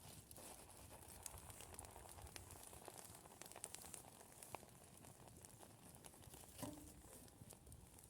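Faint, scattered crackles and clicks over a quiet background.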